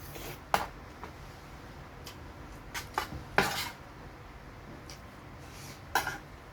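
Eating utensils clinking against a dish, a few sharp separate clinks: about half a second in, a pair around three seconds in, and one near six seconds.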